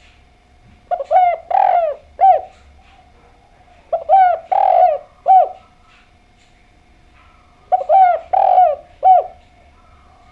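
Spotted dove (derkuku, tekukur) cooing its call three times, about three seconds apart. Each phrase is a quick run of four or five low, falling coos with one longer note in the middle. A faint steady hum runs underneath.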